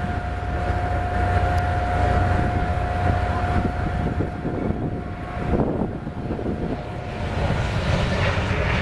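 Airbus A320neo jet airliner's engines, a steady low rumble with a held whining tone that fades out about five and a half seconds in.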